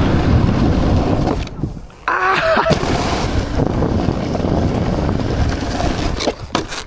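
Rushing wind on the microphone and the scrape of sliding over snow at speed. The noise falls away briefly about a second and a half in, then cuts back in suddenly, as on a landing.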